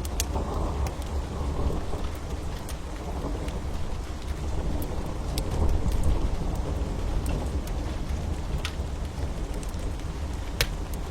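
Steady rain under a deep, constant low rumble, with the sharp pops and snaps of a crackling wood fire scattered through it, about one every second or two.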